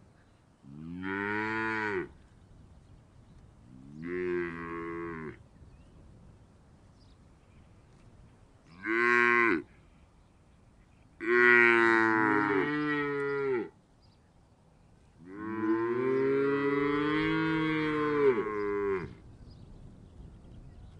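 Cow mooing five times, with short pauses between calls; the last two calls are long and drawn out.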